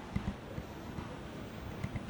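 Steady background hubbub of a busy supermarket, with a few soft low thumps near the start and again near the end.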